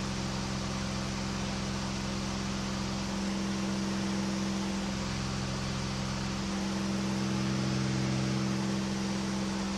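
KR2 light aircraft's engine and propeller droning steadily in cruise flight, heard inside the cockpit as a low hum over rushing air, swelling slightly about seven seconds in.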